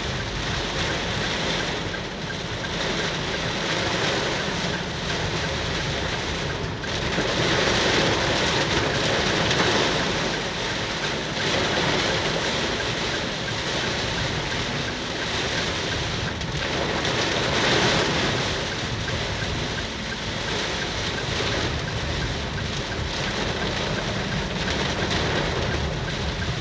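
Heavy rain driven by strong wind: a steady rush of noise that swells twice, about a third of the way in and again past the middle. Road traffic is mixed in.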